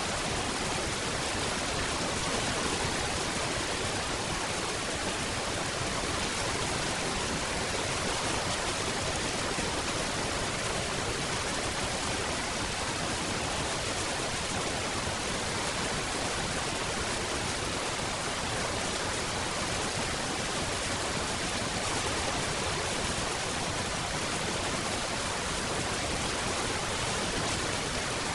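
Steady rainfall, an even, dense hiss with no separate drops or thunder standing out.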